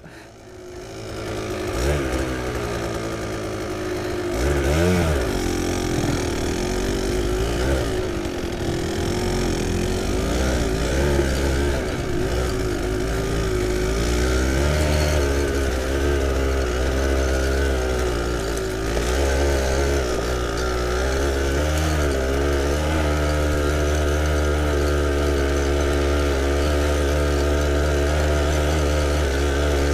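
Kawasaki KDX220SR two-stroke single-cylinder trail bike engine running under way, its revs rising and falling with the throttle. It starts low and builds over the first couple of seconds, with a sharp rev about five seconds in.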